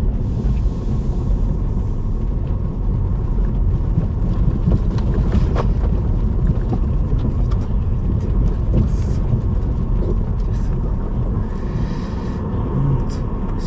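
A car on the move: a steady, loud low rumble of road and engine noise, with a few faint clicks and rattles over it.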